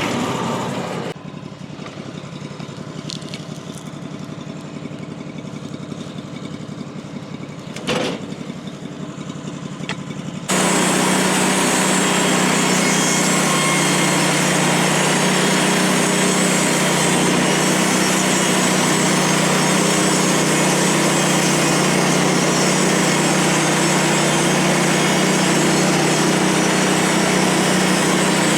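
Small gas engine of a portable band sawmill running. It is quieter for the first several seconds, with a single knock, then steady and loud from about ten seconds in.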